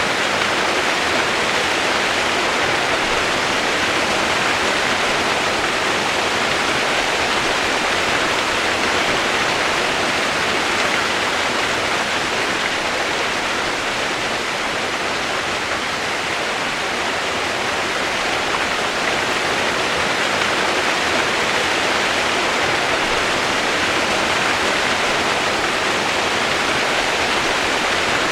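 Water rushing steadily, a continuous even hiss that does not change.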